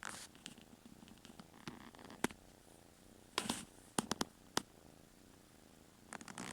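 Kitten purring steadily, close up, with a series of sharp clicks and short rustles over it, the loudest cluster a little past the middle.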